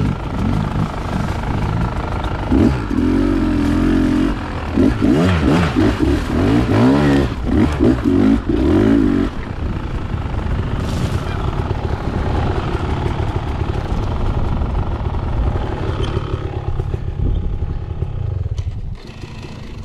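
Dirt bike engine being ridden, its pitch rising and falling with the throttle for several seconds, then running at a steadier, lower note.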